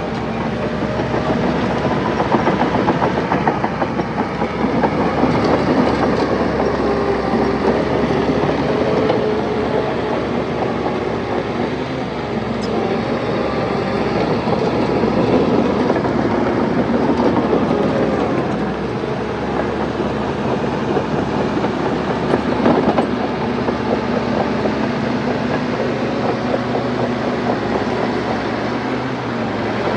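Crawler dozer working: its diesel engine runs under varying load over the steady clatter and clank of its steel tracks.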